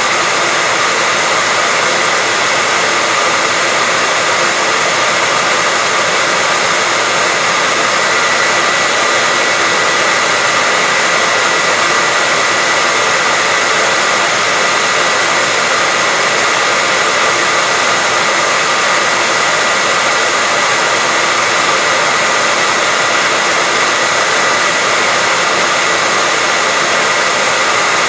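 Hair dryer running continuously at a steady level, a constant rush of air with a steady whine, played as white noise to soothe a baby to sleep.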